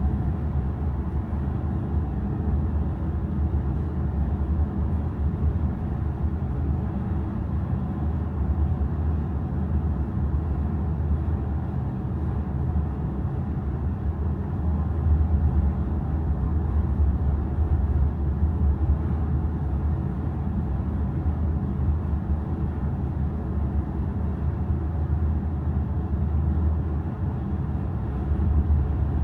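Steady low rumble of the ferry Kitakami's engines while under way, unchanging throughout.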